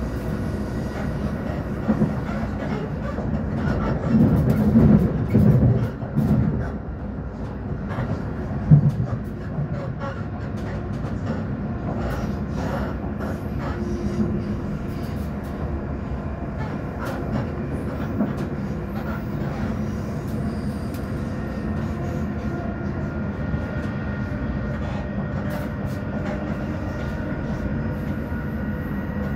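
Class 458/5 electric multiple unit running on the line, heard from inside the carriage: a steady rumble of wheels on the track with a faint steady motor whine. It gets louder and rougher for a couple of seconds about four seconds in, and there is one sharp knock about nine seconds in.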